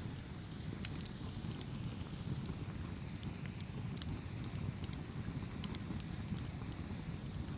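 Campfire burning steadily with a low rumble, crackling and popping in quick irregular snaps.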